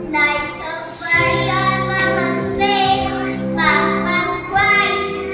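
A child singing a melody in phrases over instrumental backing music.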